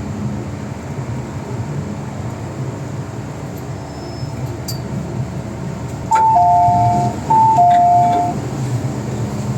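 Steady low hum of an MTR M-train's equipment and the station around it, broken about six seconds in by an electronic two-tone chime, a high note then a lower one, sounding twice in a row.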